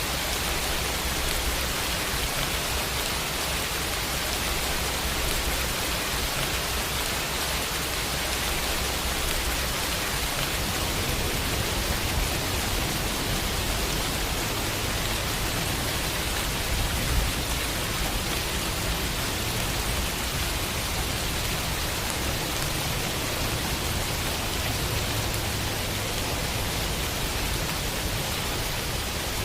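Steady rainfall on a window, an even hiss of drops with no letup.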